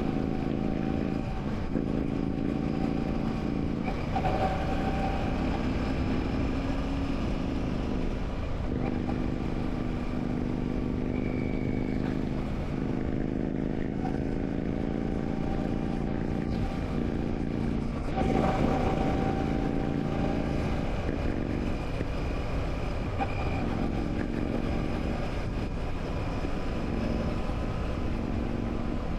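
Royal Enfield Classic 650 parallel-twin engine running under way, heard from the rider's position. The engine note rises and falls with throttle and gear changes, with several brief breaks in the pitch.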